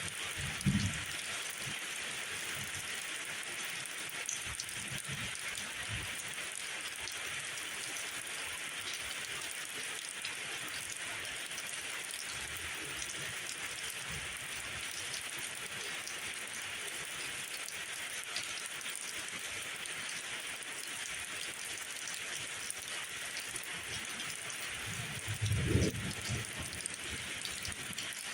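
Steady rain falling, an even hiss throughout. Two brief low rumbles rise under it, one about a second in and one a couple of seconds before the end.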